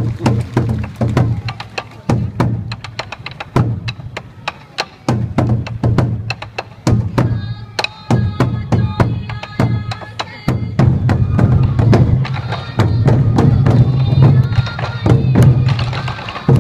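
Sansa odori festival music: many taiko drums struck together in a quick, driving rhythm. About halfway through, a high bamboo flute melody joins over the drumming.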